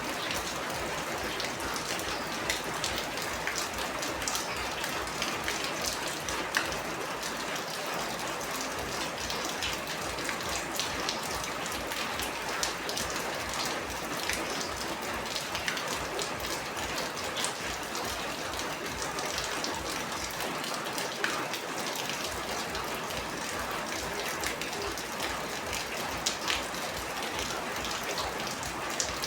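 Steady rain falling on a surface: a dense patter with many individual drops ticking on top.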